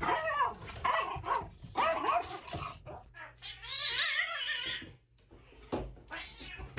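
A dog vocalizing in a string of short calls, then one longer wavering call about four seconds in.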